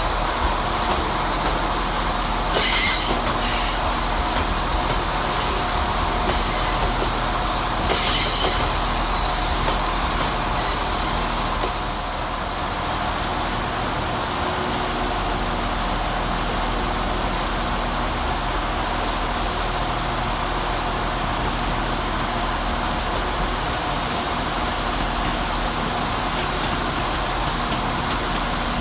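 Irish Rail 22000 Class diesel multiple units running through the station at low speed, a steady drone from their underfloor diesel engines and wheels. Two sharp wheel squeals cut through about three and eight seconds in.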